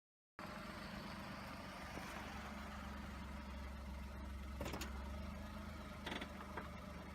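A vehicle engine running steadily with a low hum, over an even hiss of water, with a few short knocks about four and a half and six seconds in.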